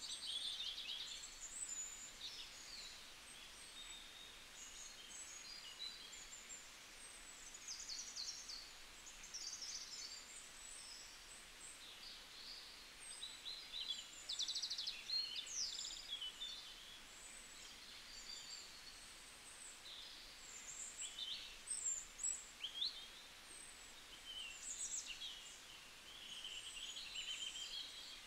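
Small birds chirping and twittering: many short, high calls, quick trills and sweeps overlapping, faint.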